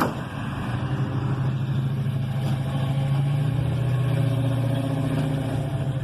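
A car engine running steadily at idle, a low, even hum.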